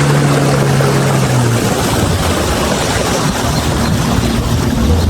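A boat's outboard motor running. Its steady hum gives way about one and a half seconds in to a rougher rumbling and rushing noise.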